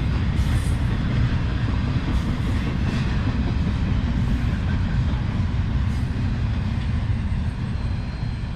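CSX freight train's cars rolling past, a steady rumble of wheels on the rails.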